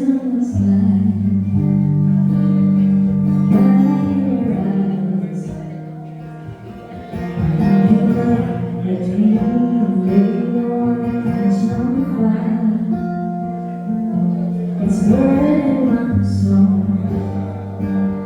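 A singer performing a song with acoustic guitar accompaniment, holding long notes with vibrato over steady strummed chords.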